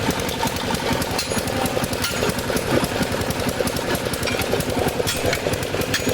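Loud, continuous rapid mechanical hammering with no break, from workshop machinery.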